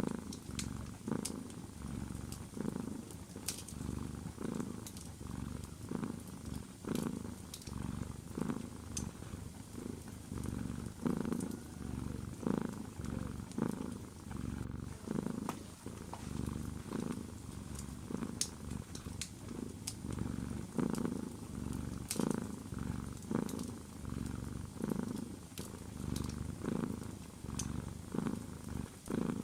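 A domestic cat purring steadily, the low rumble swelling and fading about once a second with its breathing, with scattered sharp crackles and pops of a wood fire.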